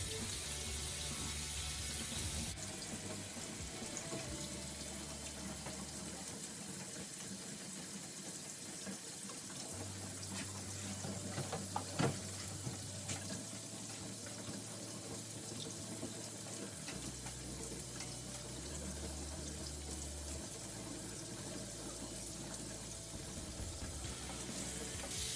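Kitchen tap running warm water steadily over a frozen container of turkey stock in the sink, to thaw it.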